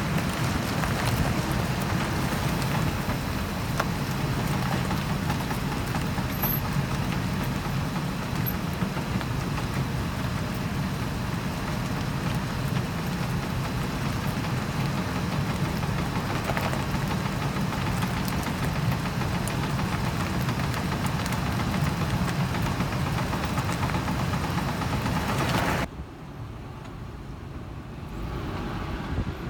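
Ford Expedition on the move, with steady driveline and running noise and the metal clicking of worn U-joints. The noise drops off suddenly near the end.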